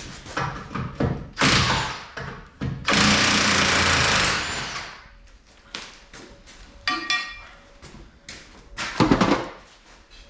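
Impact wrench run in three bursts to undo bolts, the longest about two seconds, with metallic clinks of tools and parts between the bursts.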